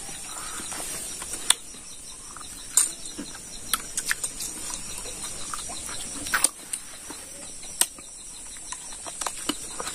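A person eating pig trotter with his hands: wet smacking and clicking mouth sounds at irregular intervals as he gnaws and chews the meat off the bone, over a faint steady high drone of insects.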